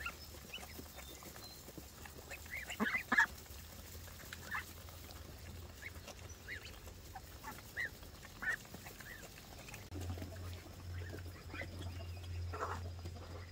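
Farmyard poultry calling: scattered short honks and clucks, the loudest cluster about three seconds in. A low steady hum runs underneath and grows louder about ten seconds in.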